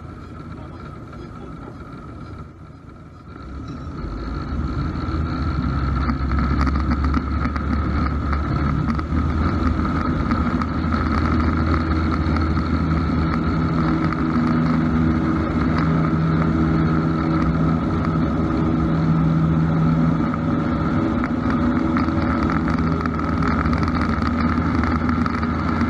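Cessna 172's four-cylinder piston engine and propeller, running low at first, then throttled up about four seconds in and holding steady at full takeoff power.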